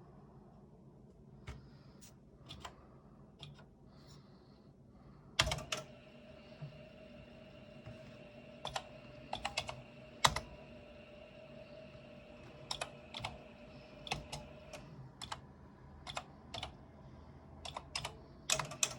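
Keystrokes on a Kontur 8020 (Korvet 8020 clone) computer keyboard: irregular key clicks, some in quick runs. A steady hum starts with a loud click about five seconds in.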